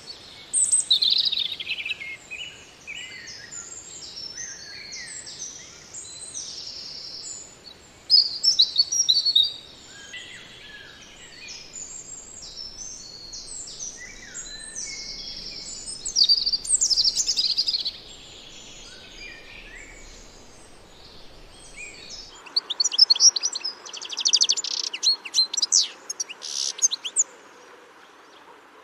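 Songbird singing a long, varied song of quick whistled and warbled phrases, in bursts with short pauses. About 22 seconds in it cuts to another bird recording with fast, rapidly repeated chirps and trills.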